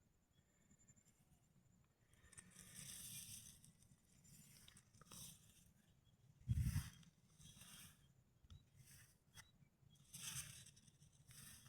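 Faint rustling and crunching in a few short bursts, with a soft thump about six and a half seconds in.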